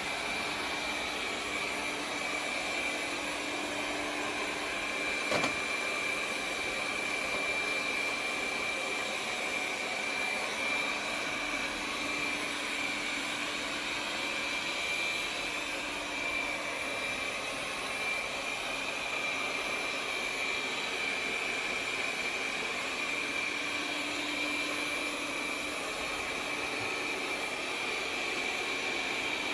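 Roidmi Eva robot vacuum running while it sweeps and mops: a steady suction-motor hum with a high whine over it, and a single sharp click about five seconds in.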